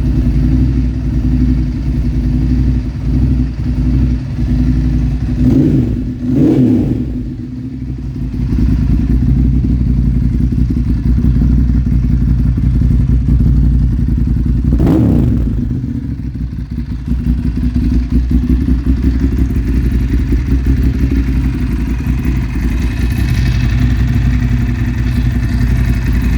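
Ducati Monster S2R's air-cooled L-twin idling after a cold start, blipped twice about six seconds in and once more around fifteen seconds, the revs rising and dropping back each time.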